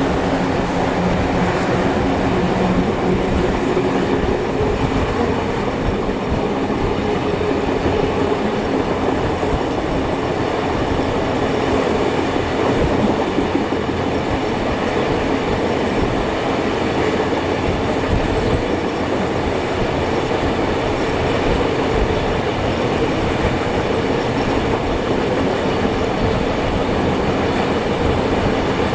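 Passenger train hauled by steam locomotives 3526 and 3265 in motion, heard from the carriages: steady running noise of wheels on rails, with some clickety-clack over the rail joints.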